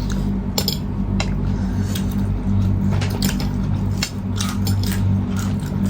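Cutlery clinking against plates while people eat: a scattering of short, sharp clinks over a steady low hum.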